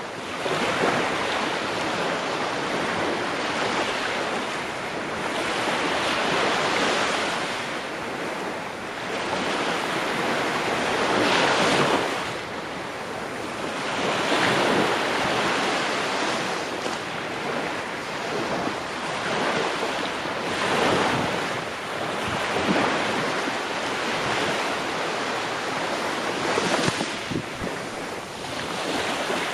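Ocean waves breaking and washing on the shore in a continuous rush of surf, swelling and easing every few seconds as each wave comes in.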